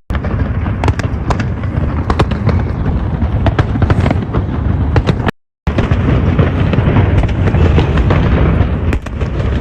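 Fireworks display: a dense, continuous barrage of booms with crackling bursts on top. The sound cuts out briefly a little past halfway, then resumes.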